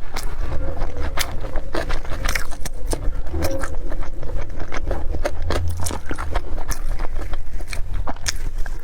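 Close-miked eating sounds: chewing, with wet mouth smacks and clicks coming irregularly several times a second.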